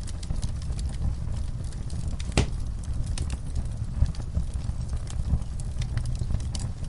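Wood fire burning in a fireplace: a steady low rumble with scattered crackles and pops, one sharper pop about two and a half seconds in.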